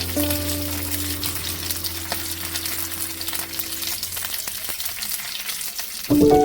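Food frying in a hot pan: a steady sizzle with small crackles.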